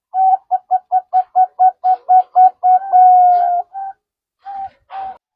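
Zebra dove (perkutut) cooing: a quick run of short notes, about four a second, ending in a longer held note, then two more single notes near the end.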